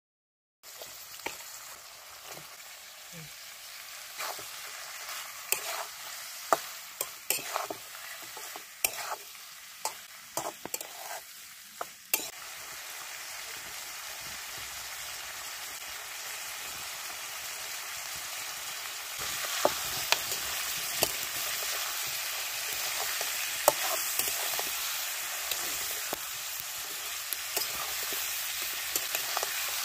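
Pork and radish frying in a steel wok over a wood fire, sizzling steadily after a short gap of silence at the start. Sharp clicks and knocks come thick through the first twelve seconds; about two-thirds through the sizzle grows louder as the curry is stirred with a metal spatula.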